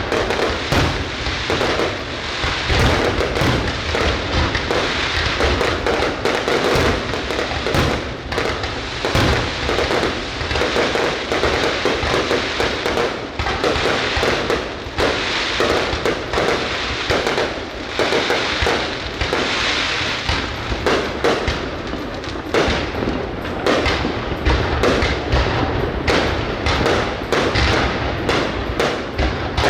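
Aerial fireworks going off without pause: a dense, continuous run of overlapping bangs and crackles.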